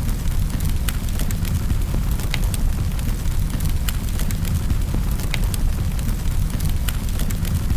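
Wood fire burning in a fireplace: a steady low rumble of the flames with sharp, irregular crackles and pops, several a second.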